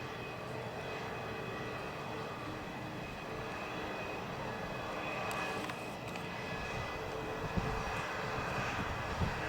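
Airbus A318-121 jet engines (CFM56) during landing: a steady jet whine over a rushing roar that grows a little fuller in the second half. Two short low thumps come near the end.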